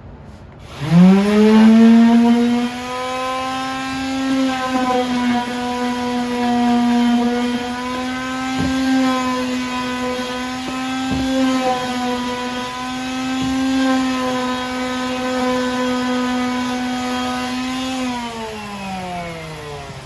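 Small electric hand sander starting up about a second in, spinning up to a steady hum, running while sanding the edges of a bandsawn wooden cutout with slight wavers in pitch, then winding down to a stop near the end.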